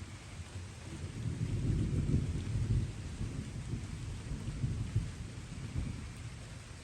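Distant thunder rumbling over light rain: a deep rumble swells about a second in, is loudest for a second or two, then slowly fades, while the steady hiss of rain runs underneath.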